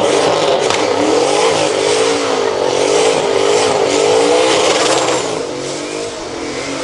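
Large race engine revving up and down over and over, its pitch rising and falling about once a second. It eases off for a moment near the end, then revs hard again.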